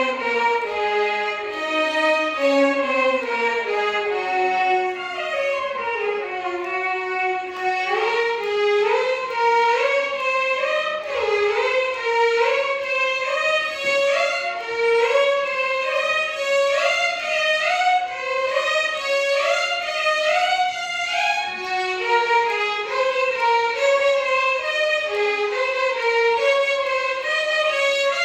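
Violin orchestra playing a Carnatic melody in unison: the line falls step by step over the first few seconds, then climbs again and again in quick stepwise runs, with slides between the notes.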